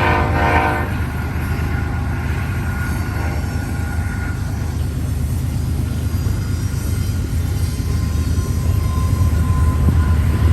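BNSF freight train passing behind a GE C44-9W diesel locomotive. A horn blast cuts off about a second in, then the steady low rumble of locomotives and cars going by, growing a little louder near the end.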